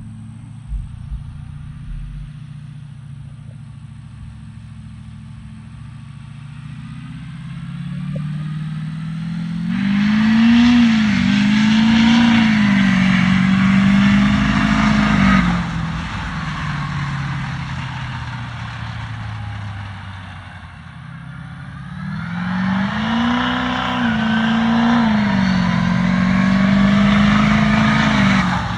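Duramax diesel engine of a mud truck, running low and then revving up hard twice: the first time about ten seconds in, held high for about five seconds before dropping back; the second from about twenty-two seconds in, held high to the end.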